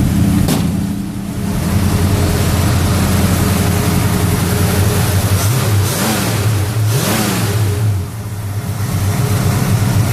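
Ford 302 V8 with a two-barrel carburettor, in a 1966 Mustang, running just after a cold start. It is briefly revved twice, a little past the middle, and settles back each time.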